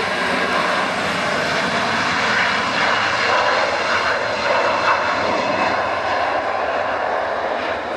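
Airliner engines running loud and steady, a broad rushing noise with a faint high whine, swelling a little midway through.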